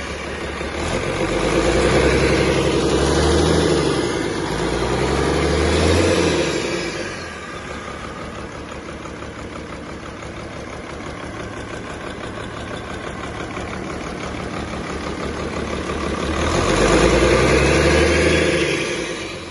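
Cummins 6CT 8.3-litre inline-six diesel engine being test-run: it is revved up three times in quick succession, drops back to a steady idle, and is revved once more near the end.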